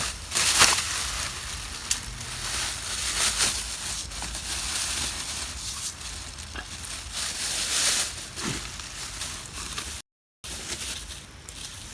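Meat sizzling on a grill over campfire embers, with irregular crackles from the fire. The sound drops out to silence for a moment about ten seconds in.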